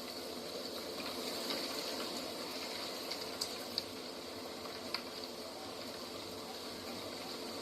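Steady outdoor nature ambience: an even, rushing noise with a steady high-pitched buzz over it, and a few sharp clicks around the middle.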